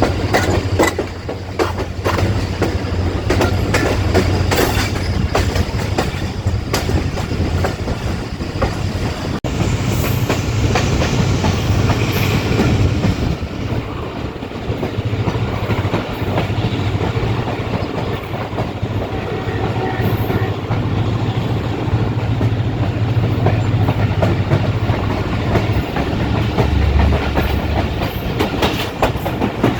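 Passenger train running along the track: a steady low rumble with the wheels clattering over the rail joints.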